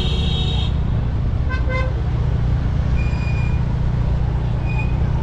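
Road traffic heard from a moving motorcycle, with a steady low rumble and vehicle horns honking several times: one horn cuts off under a second in, and shorter beeps follow around two, three and five seconds in.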